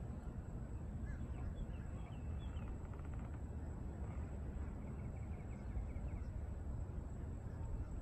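Faint bird calls over a steady low background rumble: a few short chirps in the first few seconds, then a quick run of ticking notes a little past the middle.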